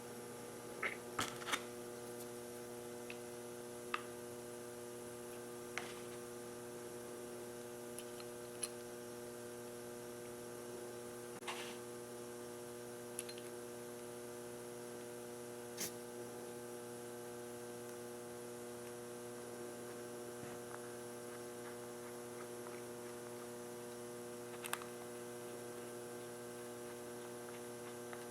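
Steady electrical mains hum with a few faint, scattered clicks and taps.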